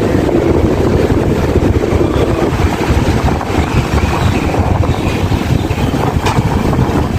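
Inside a moving passenger train: a steady, loud rumble of the carriage running on the track, with a faint click about six seconds in.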